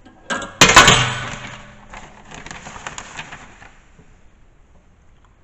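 Loose metal hardware clattering: a sharp clatter just before one second in, then a spell of rattling and clinking that dies away over the next three seconds.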